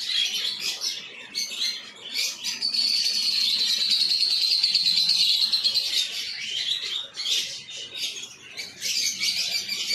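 Many small caged birds chirping and twittering together, with one steady high trill lasting a few seconds in the middle.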